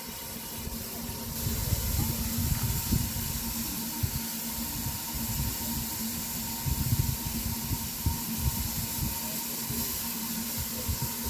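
Steam hissing steadily from a standing steam locomotive, growing louder about a second and a half in, over an irregular low rumble.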